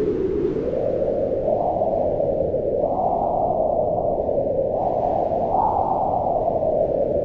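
Howling mountain wind: a steady rush whose pitch swells up and sinks back in slow waves, rising about three seconds in and again near six seconds.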